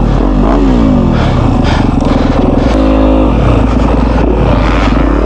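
Yamaha YZ250F's single-cylinder four-stroke engine revving, its pitch rising and falling several times as the throttle is worked.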